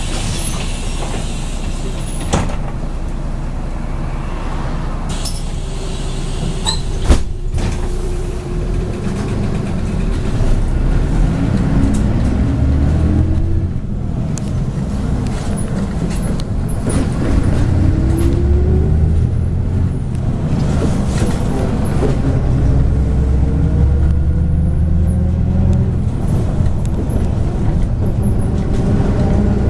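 MAZ 103.562 city bus, heard from inside: a brief air hiss at the start and a sharp knock a few seconds later, then the diesel engine pulls away with its pitch rising several times as it accelerates through the gears.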